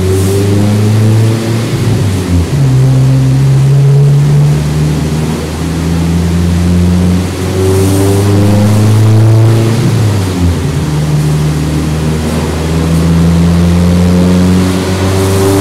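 Fiat Punto GT's turbocharged 1.4-litre engine running under load on a chassis dynamometer, driving the rollers. It holds a steady drone, broken by two short dips in pitch and level, about two seconds in and about ten seconds in.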